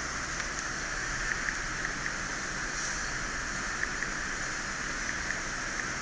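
Steady background hiss, with a few faint, brief ticks scattered through it.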